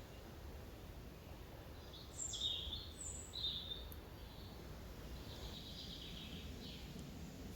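Wild birds singing in woodland: a few short high calls that drop in pitch about two to three seconds in, then a chattering phrase near the six-second mark, over a steady low background rumble.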